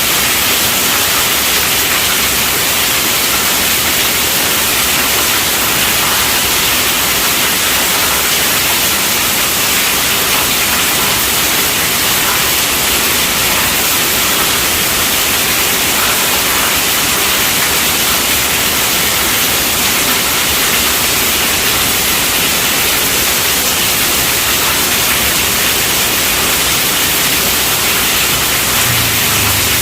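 Steady rainfall, a dense even hiss with no single drops or gusts standing out.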